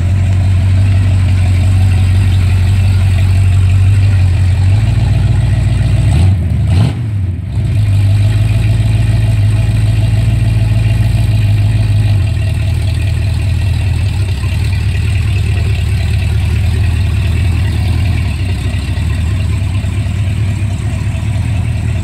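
Early Ford Bronco's engine running on a test drive of its freshly built transmission: a steady low drone, with a brief dip and recovery in the engine note about six to seven seconds in. It grows slightly fainter in the second half.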